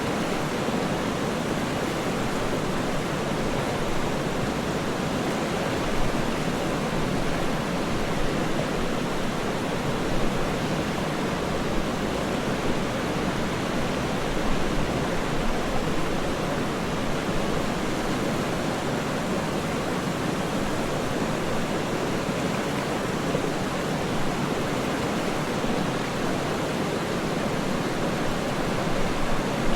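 Waterfall rushing steadily: an even, unbroken wash of noise, deepest in the low-middle range.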